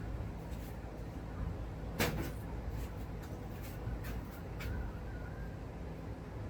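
A sharp knock about two seconds in and several lighter clicks, over a steady low hum.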